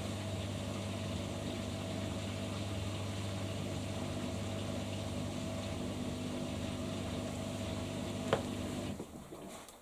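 Beko Pro AquaTech washing machine running with a steady hum near the end of its cycle. A click comes about eight seconds in, and the machine stops just after.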